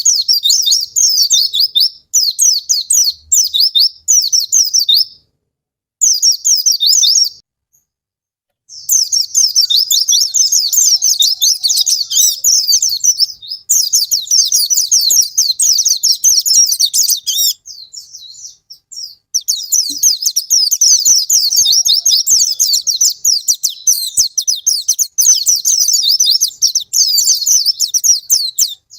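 White-eye (pleci) singing its long, rapid twittering song: high, fast, warbling notes in long phrases with a few short pauses, the longest pause about two thirds of the way through. This is the kind of song used as a lure to get a reluctant caged white-eye to sing.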